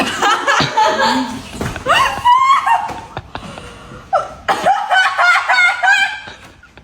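People laughing out loud, with a run of quick repeated laughs in the second half.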